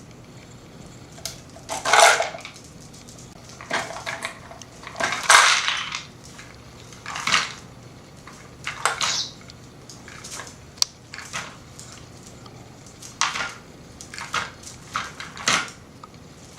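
A pet budgie noisily working at a toy, making a dozen or so separate clattering rattles at irregular gaps of a second or two.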